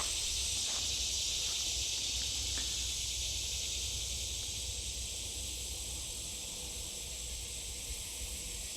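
Steady, hissing drone of an insect chorus in the creekside woods, high-pitched and unbroken, with a low rumble underneath.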